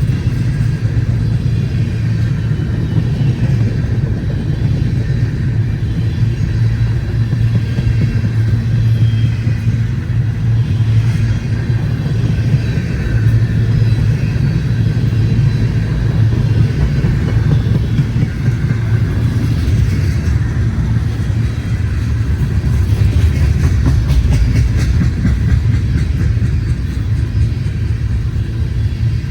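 Freight train rolling past: a steady low rumble of wheels on the rails, with bursts of faint clicking in the second half.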